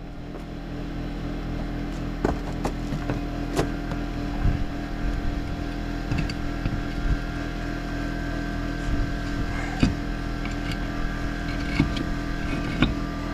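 Kubota L2800 tractor's diesel engine running steadily, with scattered clanks and knocks over it.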